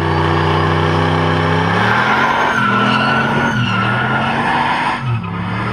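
1968 Chevy C10 pickup's 5.3-litre LS V8 with an LS6 cam, held at high revs for a burnout while the rear tyres spin and squeal. The engine note is steady at first, then wavers up and down from about two seconds in as the tyre squeal sets in.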